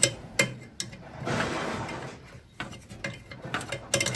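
Hand tools and a steel brake line being worked into place: scattered light clicks and knocks of metal on metal, with a short scraping stretch in the middle and a quick run of clicks near the end.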